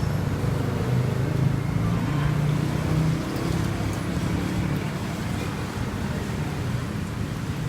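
A motor vehicle engine running with a steady low hum of road traffic, stronger for the first three seconds or so and then easing off.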